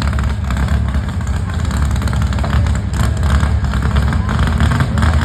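Heavy engine of a pulling vehicle running loudly and steadily, with a dense, rapid firing rattle.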